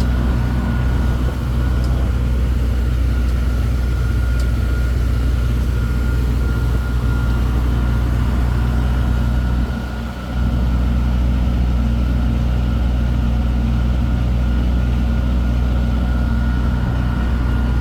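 Engine of a road-going tourist train running steadily under way, a low hum with a faint steady high whine above it. It goes briefly quieter about ten seconds in.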